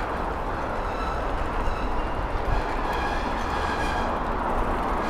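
Steady rushing and rumbling noise while riding a bicycle along a road: wind on the microphone mixed with road and traffic noise.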